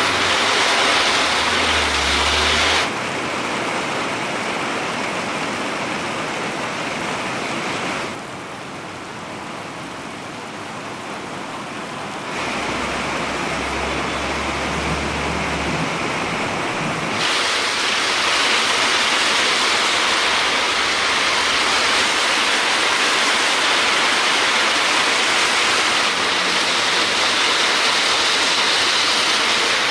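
Heavy rain pouring down on a city street: a loud, steady hiss of rain and splashing water. The level changes abruptly several times and is lowest from about eight to twelve seconds in.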